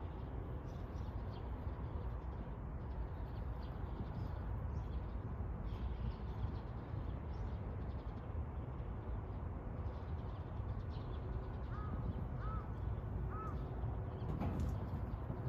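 Steady outdoor background with a low rumble, and near the end a bird calls three times in short arching notes.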